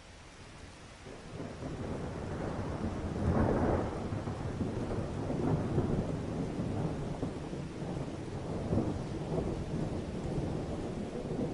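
Thunder rumbling over steady rain, fading in at first, with louder rolls swelling several times.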